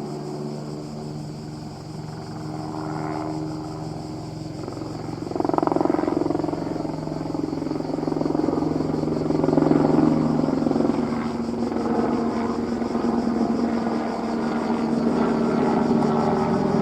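Airbus AS350 helicopter running, its rotor and turbine heard as a steady drone that grows louder about five seconds in.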